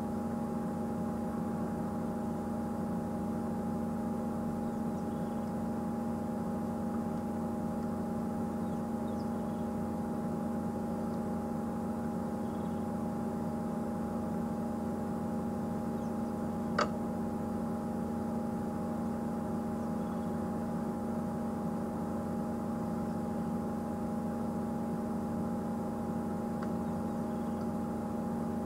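A steady mechanical hum that holds the same pitch throughout, with a single sharp click about seventeen seconds in.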